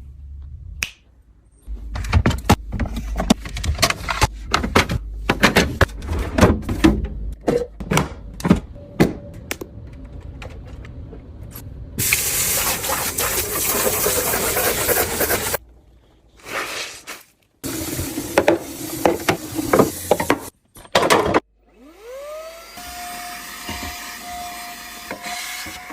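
Food containers and packaging handled and set down in quick succession, with many sharp clicks and knocks, then a few seconds of steady hiss. Near the end a small electric motor starts with a rising whine and settles into a steady hum.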